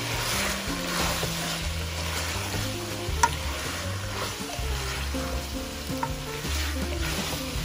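Chicken and vegetables frying in a pan and being stirred, a sizzle with repeated scraping sweeps through the mixture and one sharp clink of the utensil against the pan about three seconds in. Background music with a bass line plays underneath.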